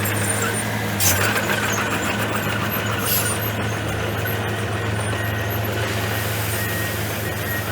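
Komatsu bulldozer's diesel engine running steadily under work, with a brief louder sudden noise about a second in and another near three seconds.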